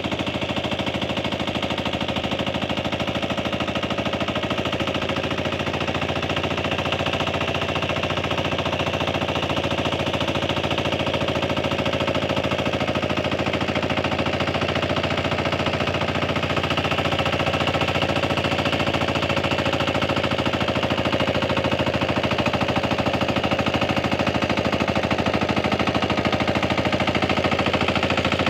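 Tractor engine running steadily in a rice paddy: a rapid, even knocking rhythm of engine firing that grows slightly louder in the second half.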